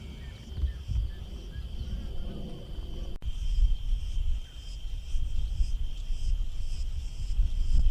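Wind rumbling and buffeting on the microphone over a steady, high insect drone, with faint chirps about twice a second.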